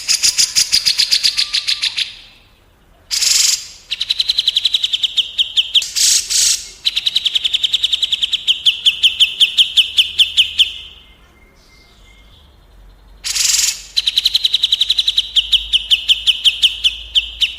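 A songbird singing long, rapid trills, four bouts with short pauses between them, each trill falling slightly in pitch; several bouts open with a short harsh, rasping note.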